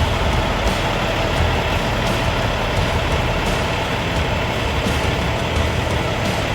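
Dump truck engine running steadily and loudly.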